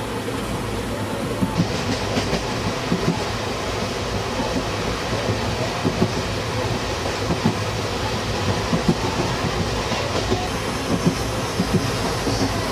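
Moving passenger train heard from inside the coach through open barred windows: a steady rumble of the running coach with irregular clicks and clatter of the wheels over the track.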